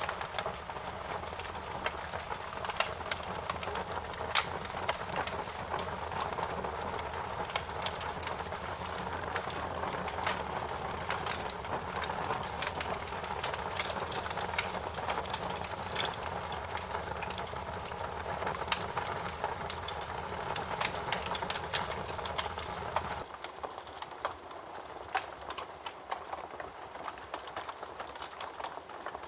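Wood fire crackling, with frequent sharp pops and snaps over a steady hiss. About 23 seconds in, the low rumble under it drops away suddenly and the sound turns thinner.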